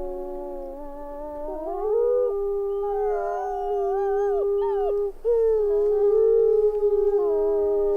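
A chorus of wolves howling, several long overlapping howls at different pitches that slide up and down. There is a brief gap just after the middle before the howls swell again.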